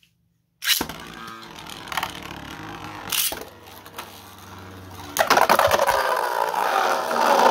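Two 3D-printed Beyblade tops launched into a stadium with a sudden clatter, whirring as they spin. From about five seconds in they clash hard, a rapid run of clicks and scraping.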